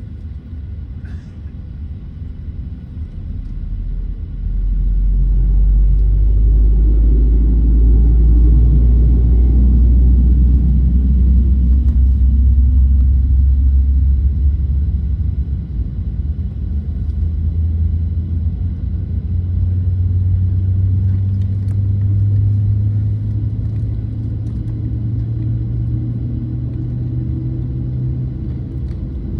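Boeing 737-900's CFM56-7B jet engine starting: a deep rumble swells about four seconds in, then its low hum climbs slowly and steadily in pitch as the engine spools up.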